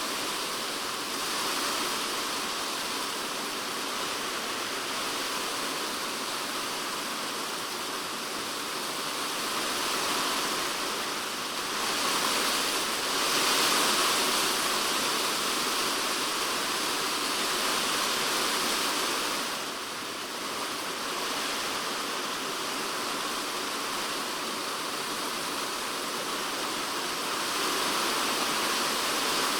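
Typhoon rain falling on a polycarbonate shed roof, heard from inside the shed as a dense, steady hiss of drops. It swells louder a little under halfway through, eases briefly about two-thirds of the way in, then picks up again near the end.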